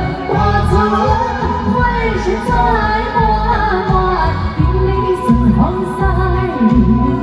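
A woman singing a Taiwanese song over backing music with a heavy bass.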